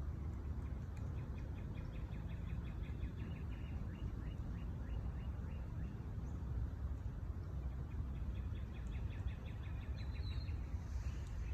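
A small bird calling in two long runs of rapid, short repeated chirps, over a steady low rumble.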